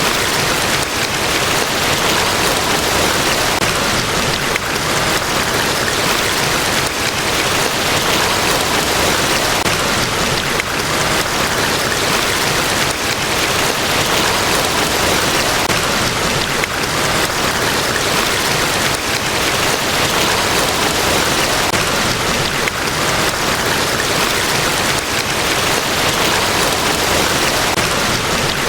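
Niagara Falls, a large waterfall, pouring in a steady, unbroken rush of water that never changes.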